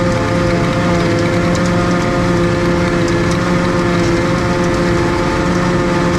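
Tractor engine running at a steady speed under load, with a few faint light ticks over it.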